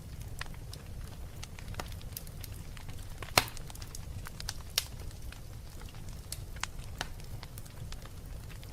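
Wood fire burning in a fireplace: a steady low rumble of flames with scattered crackles and snaps, the loudest pop about three and a half seconds in.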